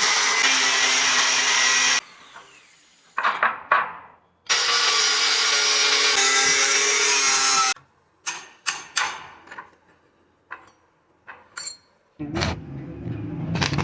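Power tool running at full speed on metal workpieces, in two long bursts of a few seconds each that stop abruptly. Short, sharp knocks and clicks of tools and metal being handled fall between and after the bursts. Near the end, a lower steady machine hum starts.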